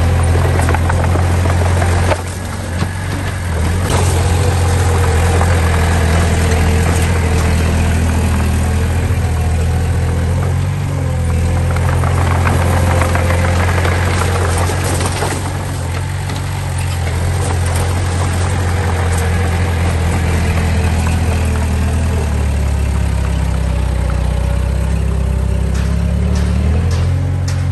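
Heavy machine's diesel engine running steadily, its note dropping lower about three-quarters of the way through and rising again near the end.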